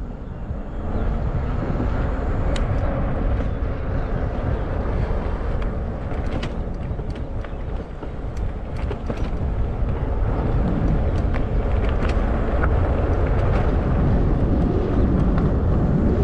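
Wind and road noise from a moving fat-tire e-bike, rushing over the camera microphone. Scattered light clicks run through it.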